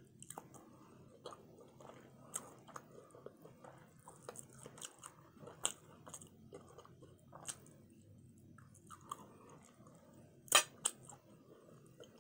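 A person chewing barbecue rib tips, with irregular short clicks throughout and two louder clicks near the end.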